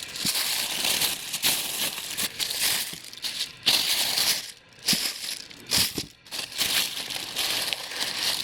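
Packaging being unwrapped by hand: crinkling and rustling in irregular bursts, with a few handling knocks.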